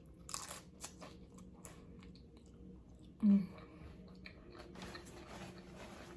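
Close-up chewing and crunching of loaded nachos made with tortilla chips. A short, loud, low-pitched sound comes just over three seconds in.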